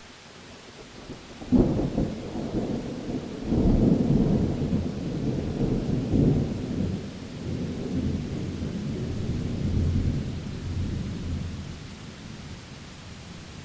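Thunderclap over steady rain: a sharp crack about a second and a half in, then a long, deep rolling rumble that dies away near the end.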